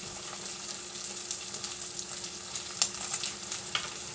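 Corned beef frying in grease in a pan: a steady sizzle with scattered sharp pops and crackles of spitting grease, the largest about three seconds in.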